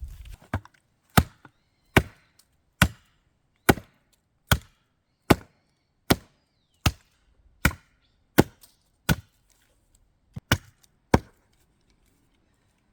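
Wood being chopped for a campfire: about a dozen sharp strikes of a blade into wood, evenly spaced a little under a second apart, stopping near the end.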